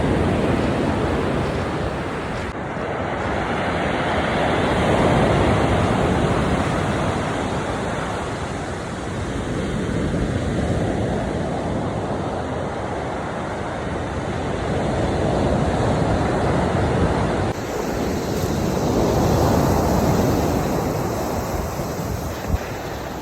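Sea waves washing onto the shore, the rush of surf swelling and fading every several seconds, with wind on the microphone.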